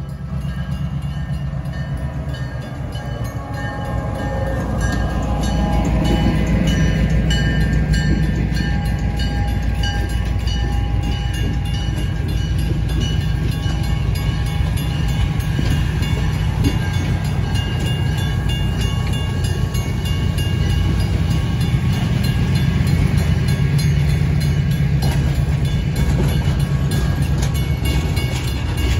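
Diesel-hauled passenger train rolling past at a grade crossing: the locomotive's low engine rumble swells as it comes by, then the coaches follow with a steady rolling noise and repeated wheel clacks over the rail joints.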